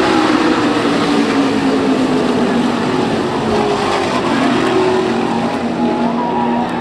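Several race car engines running at high revs with a loud, steady din. Their pitch slides slowly down over the first couple of seconds and then holds.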